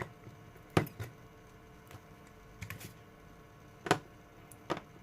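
A few separate sharp clicks and taps, about four in all, from small parts and tools being handled on a workbench.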